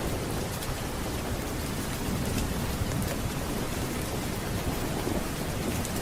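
Steady rain with a continuous low rumble of thunder under it.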